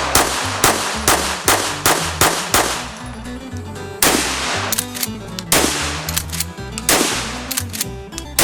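A rapid string of gunshots, about two to three a second, with a break of roughly a second and a half before the middle, over background music with a bass line.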